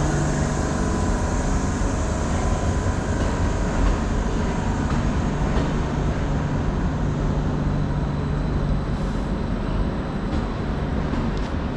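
Steady rumble and hum of trains at a railway station platform, with a low hum that fades out about seven seconds in and a few faint clicks near the end.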